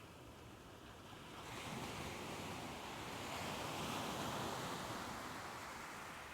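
Soft ocean waves: a wave swells about a second and a half in, is loudest near the middle, and washes back out near the end.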